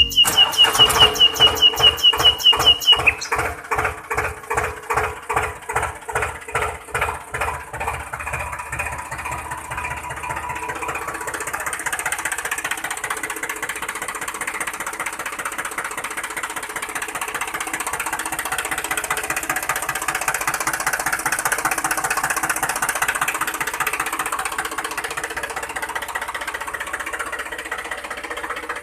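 Small motor of a homemade toy tractor cultivator running: a rhythmic clatter, about four beats a second at first, that quickens and smooths into a steady whir after about ten seconds. A high steady whine sounds over the first three seconds, then stops.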